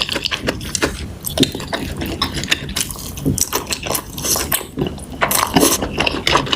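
Close-up eating sounds: wet chewing and mouth noises, a quick run of small smacks and clicks with a few louder slurpy bursts.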